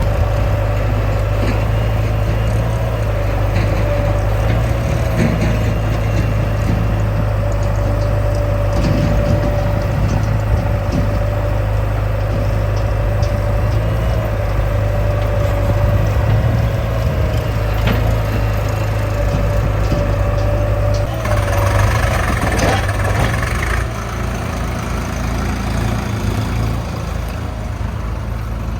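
Heavy diesel engine of earthmoving machinery running steadily, with a higher tone that wavers in pitch over the low hum. About three-quarters of the way through there are a few seconds of louder, rougher noise, then the engine continues a little quieter.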